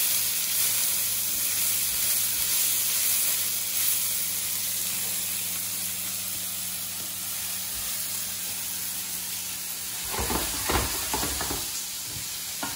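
Sliced vegetables sizzling in hot sesame oil in a pan as they are sautéed, a steady frying hiss that eases a little over the seconds. About ten seconds in come a few knocks and scrapes of the utensil stirring them in the pan.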